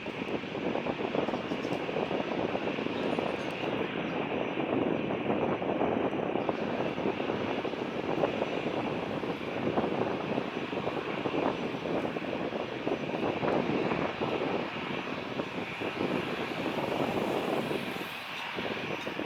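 Jet airliner engines at takeoff thrust, a steady, loud rushing noise that holds level and dips briefly near the end.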